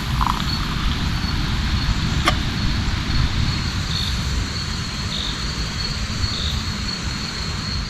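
Steady rain hiss over a low rumble, with a continuous high insect trill and short chirps repeating about once a second; a single sharp click about two seconds in.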